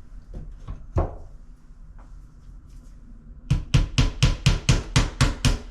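A few light knocks, then from about three and a half seconds in a quick, even run of hammer strikes, about four a second, tapping a finishing nail into window trim. The nail is only being tacked partway in so it can still be pulled if the trim is off.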